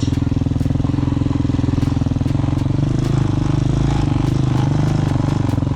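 Hawk 250 dual-sport motorcycle's single-cylinder four-stroke engine running steadily at low, easy throttle in first gear, its note shifting slightly about halfway through, with a few light knocks.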